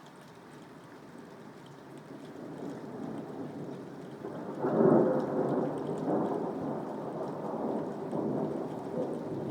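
Rolling thunder over soft, steady rain. The rumble builds from about two seconds in, peaks suddenly and loudly about five seconds in, then keeps rolling.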